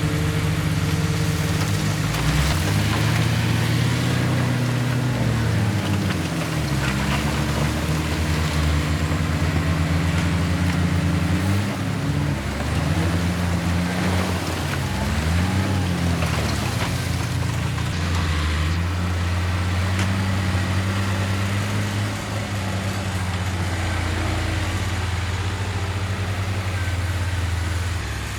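Heavy diesel engine of earthmoving machinery, revving up and down several times under changing load, then running steadily for the last ten seconds or so. A few faint knocks can be heard over it.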